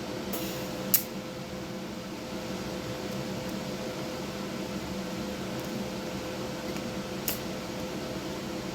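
TIG welder running on a stainless steel exhaust pipe: a steady hum and hiss, with a sharp click about a second in and another near seven seconds.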